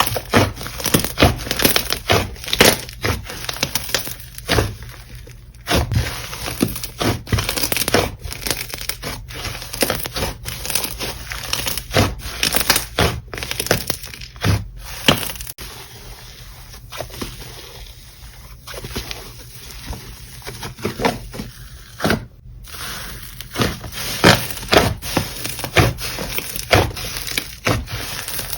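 Slime being squeezed, pressed and poked by hand, giving a dense, irregular run of crackling clicks and pops, with a short break about three quarters of the way through.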